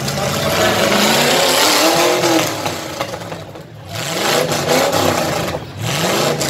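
Demolition derby cars' engines revving hard, their pitch rising and falling several times over a broad rush of noise, with a short lull about halfway through.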